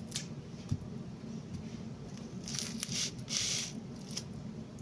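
Raw chicken drumsticks being handled and set into a glass baking dish with a little water in it: wet squishing with a dull thump just under a second in and a cluster of louder squishes about two and a half to three and a half seconds in.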